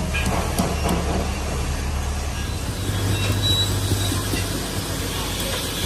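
An engine running steadily with a low hum, with light knocks and clatter over it.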